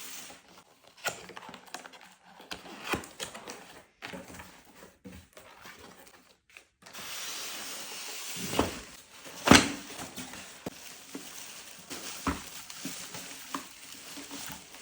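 Coffee machine being handled and run: scattered clicks and knocks, then about seven seconds in a steady whirring noise sets in, with one loud knock a couple of seconds later and light clicks after it.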